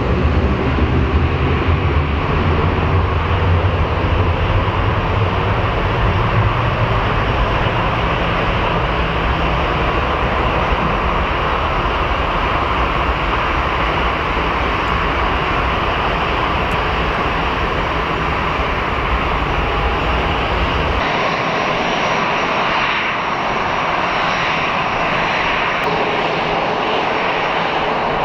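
Jet airliner engines: a deep, heavy rumble from a jet at takeoff power, then an abrupt cut after about twenty seconds to a thinner engine sound with a high whine, the Boeing 737-300's engines at the start of its takeoff.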